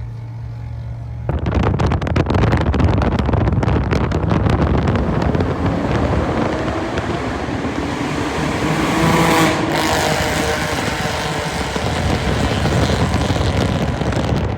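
Car engine running steadily, then about a second in it goes to hard throttle and turns loud. It revs up under acceleration, its pitch climbing to a peak a little past the middle before easing back, and runs on hard.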